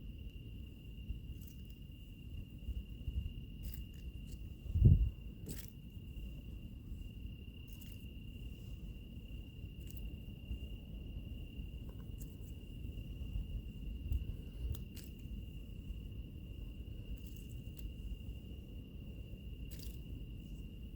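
Wood fire burning with a low rumble and scattered crackles and pops, under insects trilling in one steady high note. A single low thump about five seconds in is the loudest sound.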